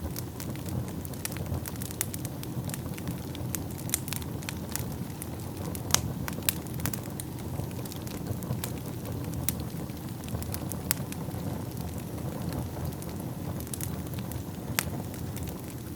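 Wood fire burning in a fireplace: a steady low rumble of flames with frequent sharp crackles and pops, a few louder pops about six seconds in and near the end.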